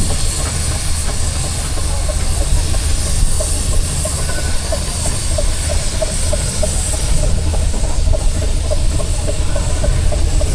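Steam traction engines running, a steady hiss of steam over a low rumble, with soft, regular exhaust beats about three times a second.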